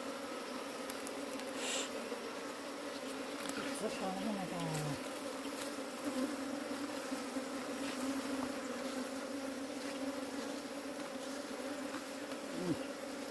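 Many honeybees buzzing together in a steady, even drone.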